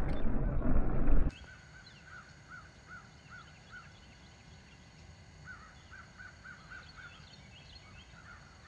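A loud low rumble cuts off abruptly about a second in. Then a bird calls faintly in two runs of about six short, evenly spaced notes, roughly two or three a second.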